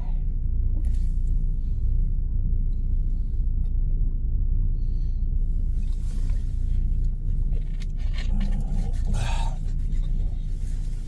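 Steady low rumble of a car in motion, heard from inside, with a faint voice briefly about eight to nine seconds in.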